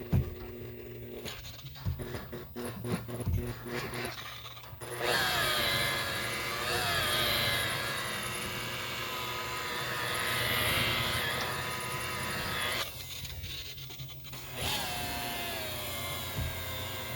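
Electric polishing buffer running on boat gelcoat with heavy-cut compound. Its motor whine rises and falls in pitch as the pad is pressed and moved, after a few seconds of scattered clicks and knocks at the start.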